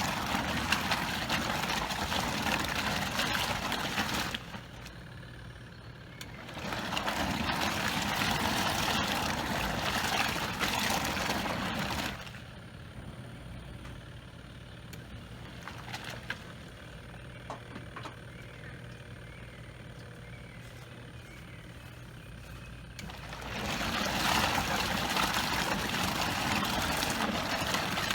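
Portable twin-tub washing machine agitating a load of clothes in rinse water: three spells of churning water a few seconds each, with quieter pauses between and a low steady hum throughout.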